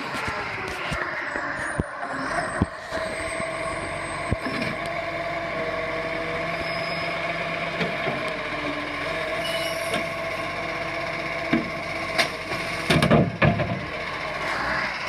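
Heavy truck running steadily, with scattered sharp knocks and a short cluster of louder noisy bursts about thirteen seconds in.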